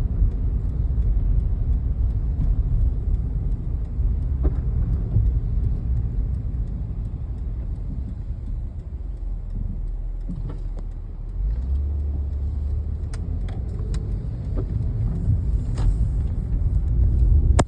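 A car on the road: a steady low rumble, with a steadier low hum setting in about two-thirds of the way through and a few faint clicks.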